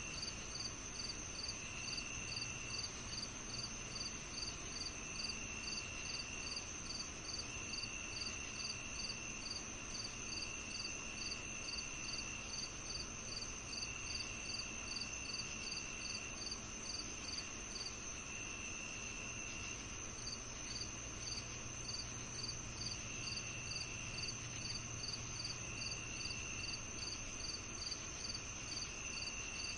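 A chorus of crickets and other night insects. A steady high-pitched trill runs under a cricket chirping about two to three times a second, which pauses briefly a little past the middle. Shorter trills of about a second repeat every couple of seconds.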